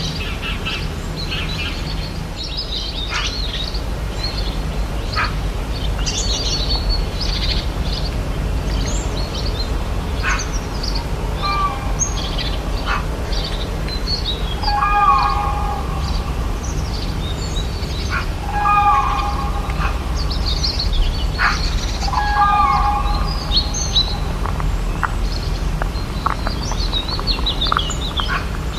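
Rainforest bird chorus: many birds chirping and twittering in high, quick notes throughout. A lower, louder call bending in pitch comes four times in the middle, three to four seconds apart, over a steady low rumble with a few sharp clicks.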